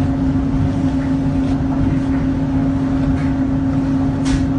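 A motor running steadily, with a constant humming tone over a rumble.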